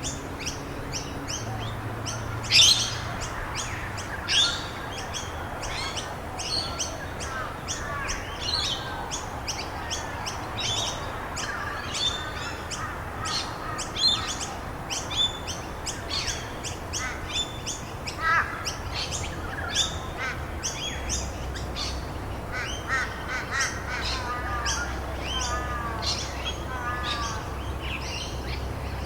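A busy chorus of small birds chirping and trilling, with many short, high calls overlapping continuously. Under them is a steady, even hiss of rain.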